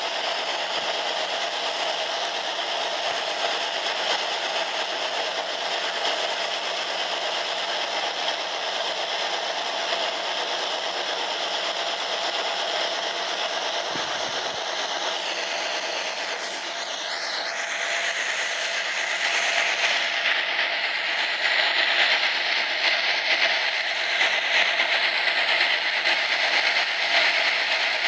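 Passenger train running through a long rail tunnel: a steady din of wheels on rail and rattling, echoing off the tunnel walls, with a brief squeal a little past halfway, then growing louder.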